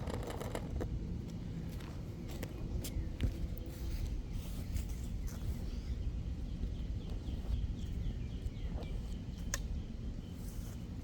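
Outdoor ambience: a steady low rumble of wind or handling noise on the microphone, with scattered clicks and rustles and a bird chirping a run of short high notes in the middle.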